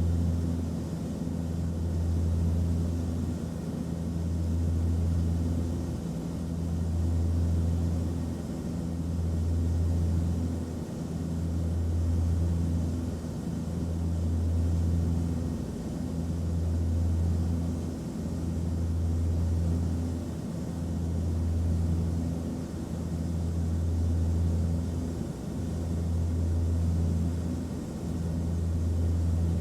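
Airplane cabin noise: a steady low engine drone with a few humming tones, swelling and fading slowly about every two and a half seconds.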